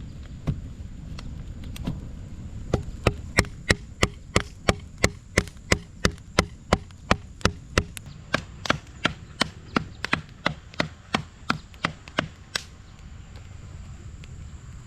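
A tool striking wood over and over in rapid, even strokes, about three a second. After two single strikes early on the strokes run steadily and stop short a couple of seconds before the end.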